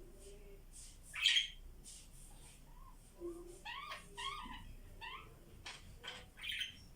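Pet budgies chattering: a loud harsh squawk about a second in, a quick run of short chirps around the middle, and another squawk near the end.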